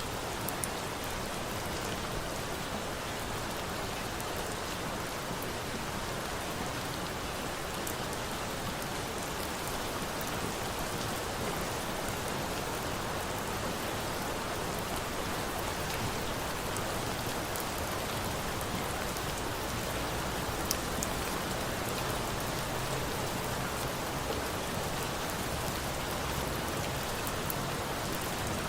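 Steady rain falling, with a few sharp crackles from a bonfire scattered through it. One crackle stands out a little after the middle.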